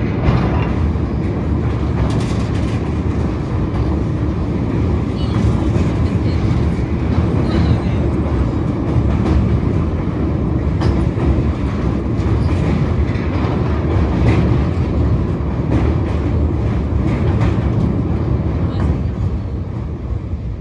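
A train running along the track: a loud, steady rumble with scattered clicks and knocks from the wheels.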